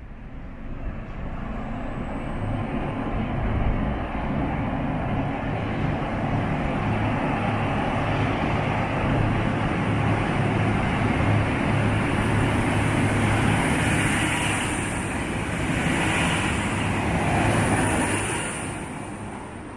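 V/Line VLocity diesel multiple unit approaching and running past alongside the platform: diesel engine and wheel-on-rail noise building up, staying loud for most of the passage, then fading near the end, with a thin high whine over it.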